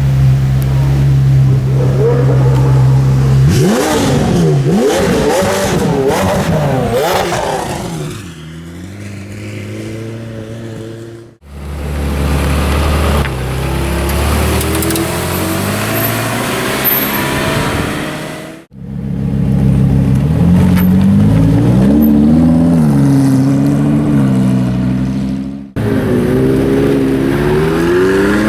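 Supercar engines revving and accelerating as the cars pull away, the pitch rising and falling through gear changes. The sound breaks off sharply three times between short clips of different cars.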